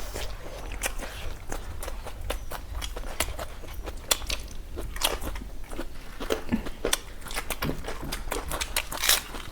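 Close-miked chewing and biting of food, an irregular run of wet, crunchy clicks with a few louder crunches midway and near the end.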